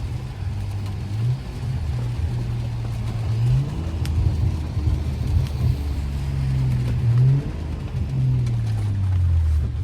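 BMW F10 535i's turbocharged straight-six through a straight-piped exhaust (resonator and muffler deleted), pulling up through the gears: the engine note rises and drops back at shifts about a second in, around three and a half seconds, and around seven seconds, then falls steadily as the car slows near the end.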